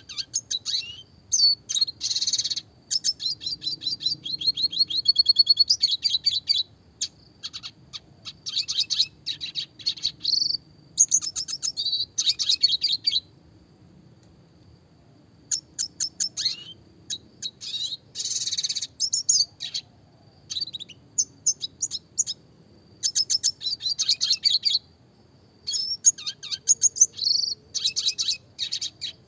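Red siskin (Spinus cucullatus) singing: long phrases of rapid chattering notes and buzzy trills, with a few short pauses between phrases.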